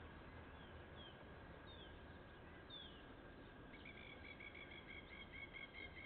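Faint birdsong: a few short chirps sliding downward, then from a little past halfway a fast run of short repeated notes, about five a second, over a steady low background hiss.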